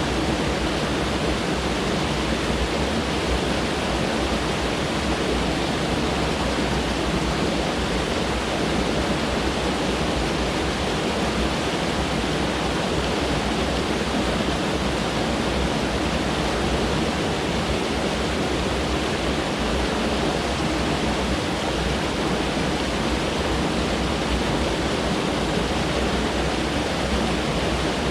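Mountain stream rushing steadily over rocks, a constant full-bodied water noise without breaks.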